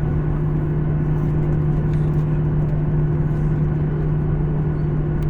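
Cabin noise inside an Embraer 175 regional jet on the ground: a steady engine hum with two low droning tones over a low rumble.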